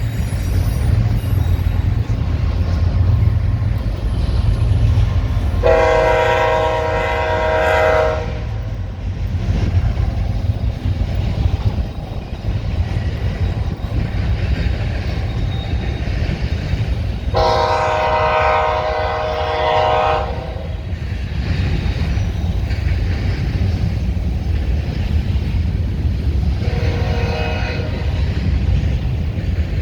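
A freight grain train rolls past with a steady low rumble of locomotives and cars. A locomotive's multi-note air horn sounds three times: two long blasts about twelve seconds apart, then a shorter one near the end.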